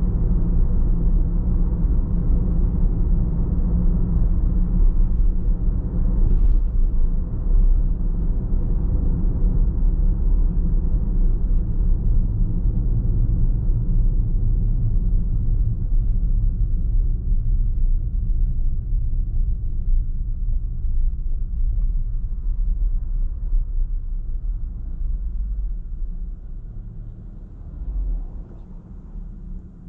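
Car driving: a steady low rumble of road and engine noise, which grows quieter over the last several seconds with a brief swell near the end.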